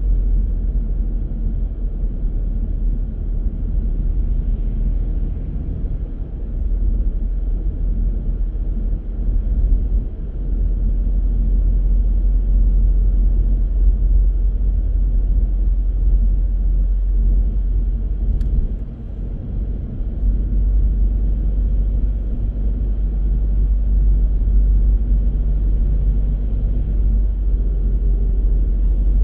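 A car driving on city streets: a steady, low rumble of road and engine noise, dipping briefly about two-thirds of the way through.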